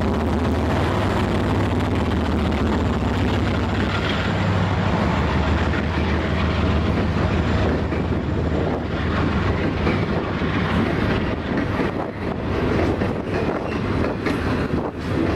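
Double-stack intermodal freight train passing close by: the low hum of its diesel locomotives fades as the container well cars roll past, giving way to the steady rumble and clatter of wheels over the rail with sharp clicks.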